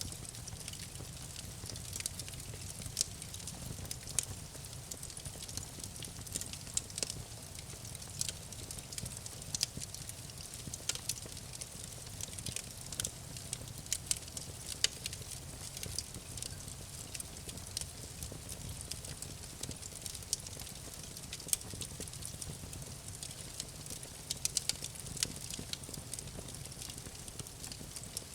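Campfire burning: irregular crackles and pops of burning wood over a steady low rumble of the flames.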